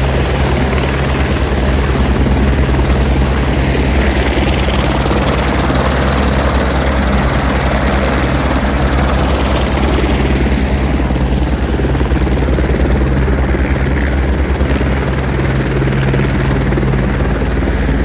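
Helicopter running steadily and loudly, its rotor beating rapidly over a low engine hum.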